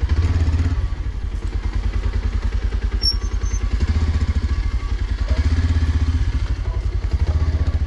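Motorcycle engine running at low revs while the bike creeps along, a steady, even pulsing.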